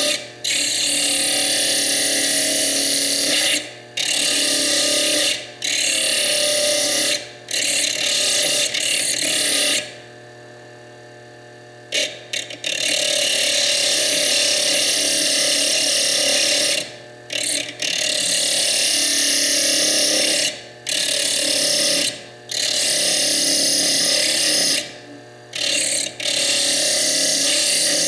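Foredom bench lathe grinding into fire agate, a loud, harsh hiss as the spinning diamond tool cuts through the stone's clear chalcedony cap. The grinding comes in long passes broken by about ten short lifts, the longest near the middle, when only the lathe motor's steady whir is left.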